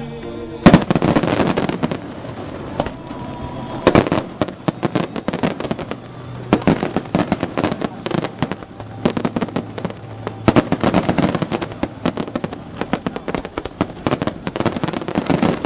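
Aerial fireworks display: a loud bang just under a second in, then a rapid, continuous run of bursts and crackling, with louder clusters and brief lulls.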